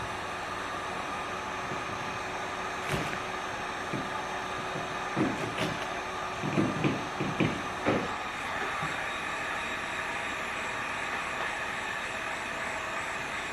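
A steady blowing hiss, with a few short crinkles and rubs, clustered in the middle, as adhesive vinyl graphic film is handled and pressed onto dirt bike plastic.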